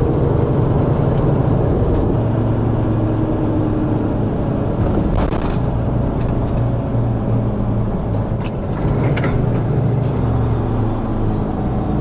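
Heavy-haul tractor-trailer's diesel engine running steadily under load, heard from inside the cab over road noise, with a few brief clicks about five and nine seconds in.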